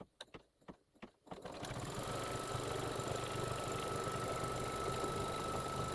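A few clicks, then an embroidery machine starts up and runs steadily, stitching the tack-down line that holds the batting in place, with a constant high whine over its running.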